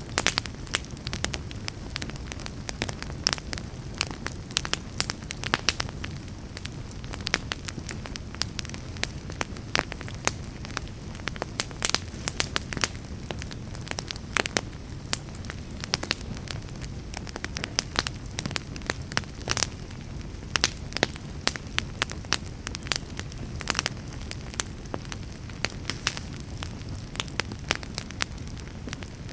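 Wood log fire burning in a fireplace: frequent irregular sharp crackles and pops over a steady low rumble of the flames.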